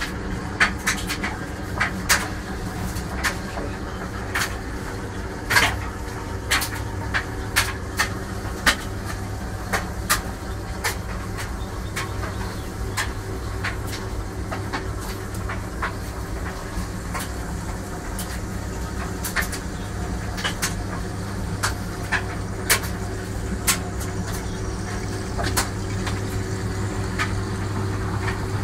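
Irregular sharp metallic clicks and knocks from hand-tool work on a washing machine, over a steady low hum. The clicks are densest in the first ten seconds and again from about twenty seconds in.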